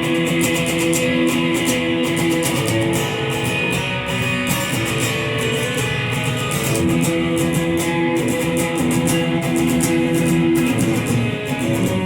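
Guitar playing an instrumental passage: picked chords ringing over a bass line, steady and continuous.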